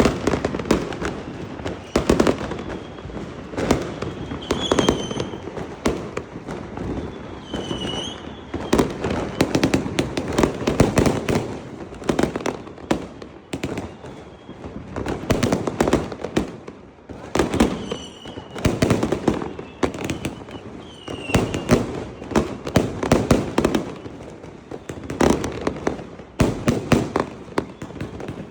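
Fireworks going off in a dense, continuous barrage of bangs and crackles, with short whistles cutting in now and then.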